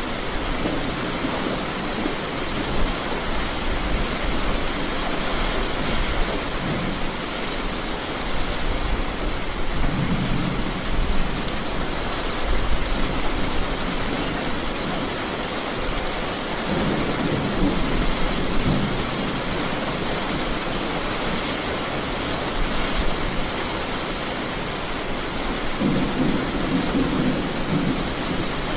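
Steady heavy rain falling, with thunder rumbling low several times.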